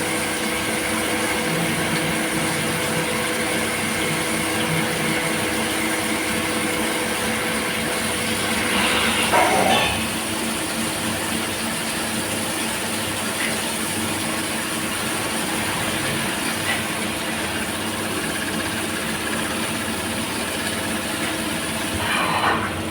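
CNC machine running a cutting job: a steady mechanical hum with several held tones and hiss, with a brief louder sweep about nine seconds in and again near the end.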